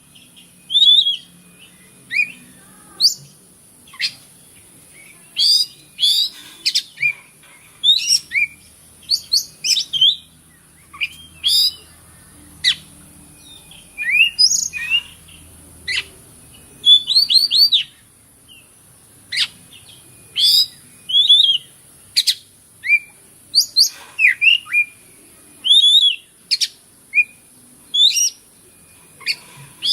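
Oriental magpie-robin (kacer) singing a varied song of short, sharp whistles and chirps, some rising and some falling, in quick irregular bursts with brief pauses between.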